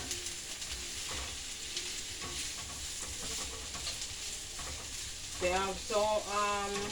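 Food frying in hot oil in a pan, a steady sizzle, with a voice speaking briefly near the end.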